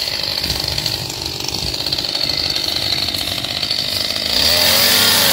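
Chainsaw running as it cuts into wood, its engine getting louder about four seconds in.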